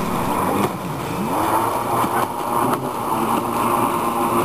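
Motorboat engine running, its pitch rising and falling, over a steady rushing noise, with a few faint clicks.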